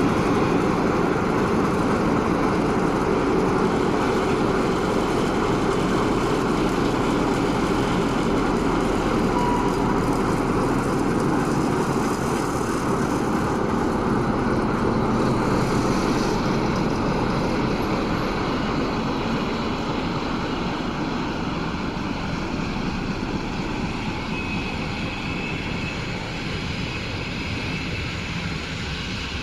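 Class 060-DA diesel-electric locomotive pulling a regional train out of the station, its Sulzer 12-cylinder diesel engine running steadily under load and slowly fading as it draws away in the second half.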